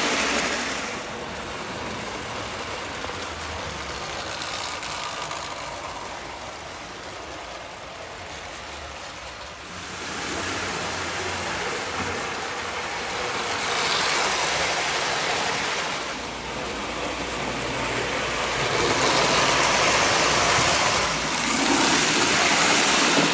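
Marx tinplate toy electric train running on its track, a steady whirring rattle that grows louder and fades several times as it circles past.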